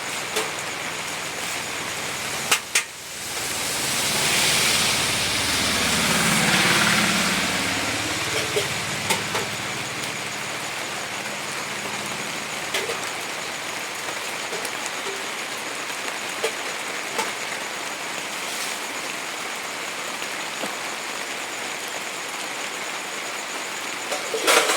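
Steady rain hissing with scattered drips ticking, and a vehicle passing on a wet road, swelling and fading between about four and eight seconds in. A couple of sharp knocks sound just before the swell and again near the end.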